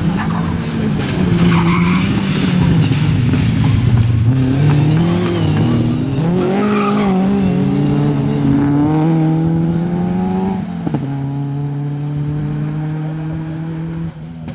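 Rally car engine revving hard through a corner with tyre noise. The pitch drops, then climbs in steps as it accelerates. After a sharp click about eleven seconds in, the engine holds a steady, slightly quieter note.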